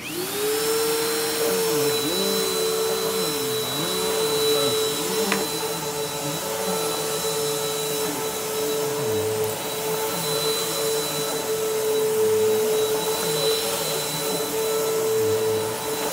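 Bissell PowerForce Helix upright vacuum cleaner switched on: its motor spins up quickly to a steady whine and keeps running, with a high thin tone above it and lower tones that waver up and down.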